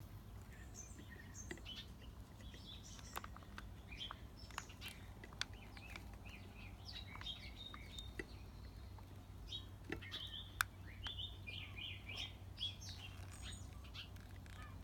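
Small birds chirping with many short, high calls, over a steady low hum, with a few sharp clicks, one louder click about two-thirds of the way in.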